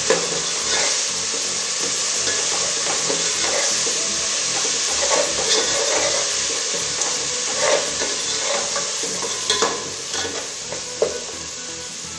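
Chopped onions and whole spices sizzling steadily in hot oil in an aluminium pot, stirred with a steel ladle that scrapes and knocks against the pot every second or two.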